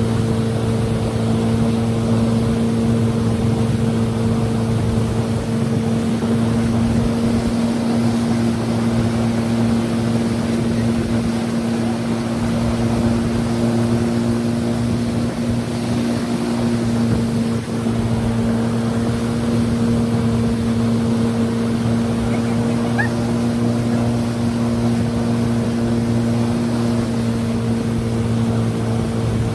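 Motorboat engine running at a steady speed, with a rush of wind and water over it.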